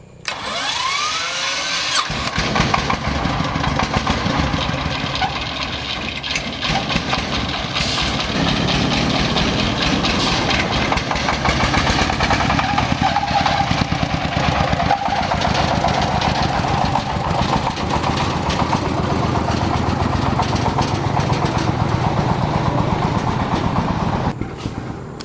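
Restored old tractor engine being started: a short rising whir as it is turned over, catching about two seconds in, then running steadily with a fast, even beat until it drops away near the end.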